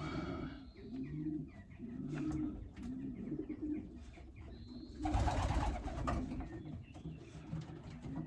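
Racing pigeons cooing in the loft, a run of low repeated coos. About five seconds in, a louder rustling lasting about two seconds cuts across them.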